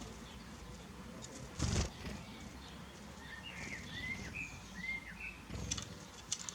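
Small birds giving a run of short chirps in the middle, over steady outdoor background noise. A brief loud thump comes about a second and a half in, and a few sharp ticks near the end.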